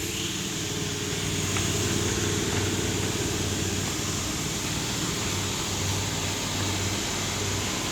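A 2012 Honda Pilot's V6 engine idling steadily in park, a low even hum.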